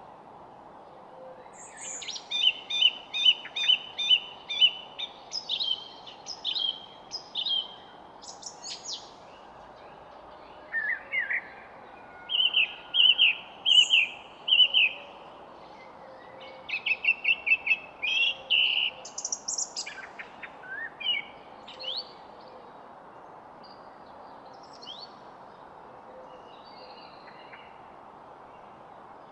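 Songbirds singing: phrases of rapid repeated chirps and short whistled notes, with a quieter spell of only occasional notes over a steady background hiss in the last third.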